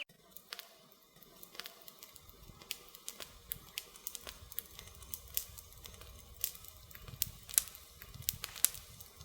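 Wood fire crackling: irregular sharp pops and snaps over a faint hiss, with a few louder pops in the second half.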